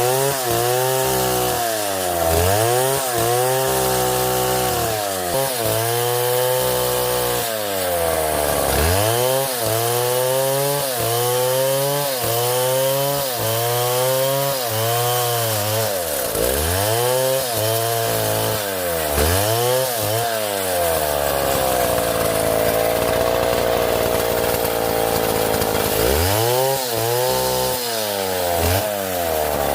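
Two-stroke chainsaw running loud, its engine revving up and dropping back every second or two as it cuts through palm wood. Past the middle it holds at a steady high rev for a few seconds, then goes back to revving up and down near the end.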